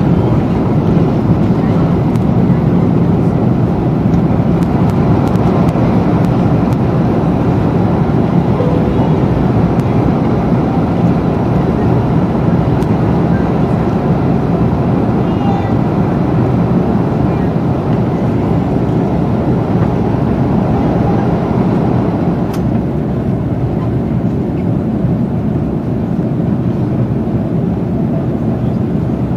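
Steady noise of an Airbus A330's jet engines and rushing air, heard inside the cabin. It eases slightly in the last few seconds.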